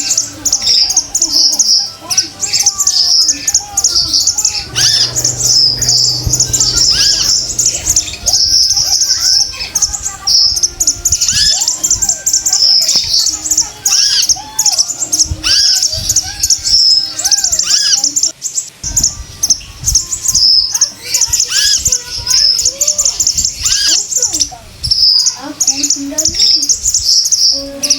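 Female konin calling: a dense run of rapid, high chirps with many short arched whistled notes below them. This is a lure call, played to get a male konin singing.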